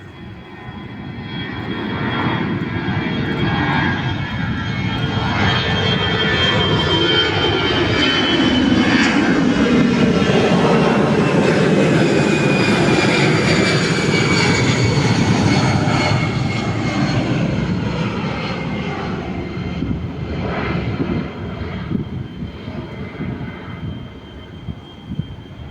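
Airbus A320-214's CFM56 turbofan engines at takeoff power as the airliner passes. The jet noise builds, is loudest in the middle, then fades, while a high engine whine slides down in pitch.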